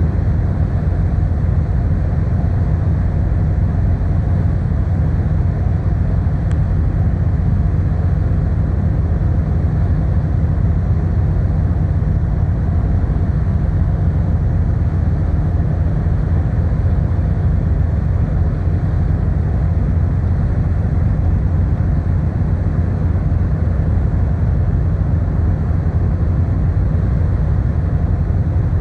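Steady low drone of the car ferry Kuniga under way: engine and hull rumble with a few constant low hum tones and no change in pitch.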